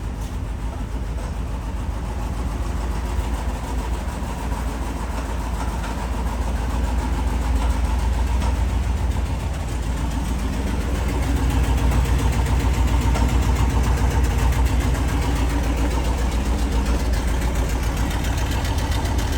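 1961 Ford F250's 292 Y-block V8 idling steadily and smoothly, shortly after a cold start.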